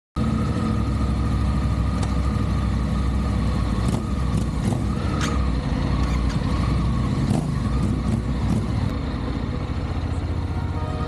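Motorcycle running steadily on the road: a continuous low engine drone with road and wind rumble.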